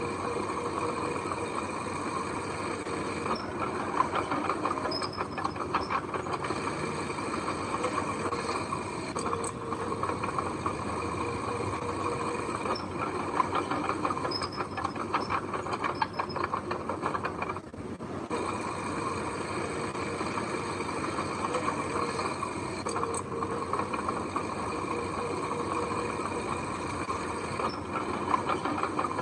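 Crawler bulldozer working: a steady engine drone under a dense, rapid metallic clatter from its steel tracks.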